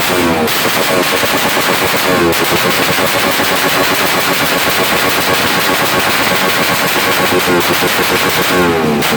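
A motorcycle engine revved hard and held at high revs, giving a rapid, machine-gun-like crackle, with its pitch sweeping near the start and again near the end.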